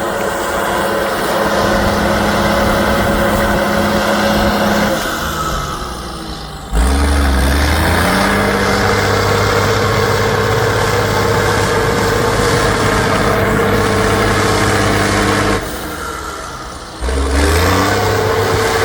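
Off-road trial truck engine running hard under load, its revs falling away twice and picking straight back up.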